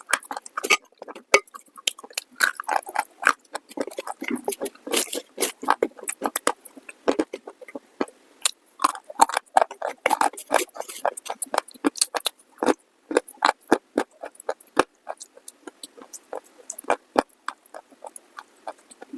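Close-miked crunching: biting and chewing brittle pieces in the mouth, a rapid string of sharp cracks and crackles. The cracks are dense for most of the stretch and thin out to scattered crackles near the end.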